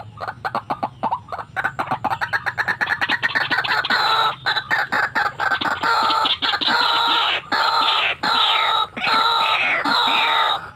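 White-breasted waterhen calling: a fast run of short clucking notes that quickens over the first few seconds, then loud, repeated croaking calls with falling pitch.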